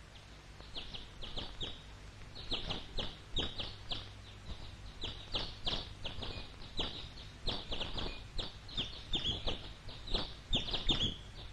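Small birds chirping: many short, high, downward chirps in quick succession, starting about a second in.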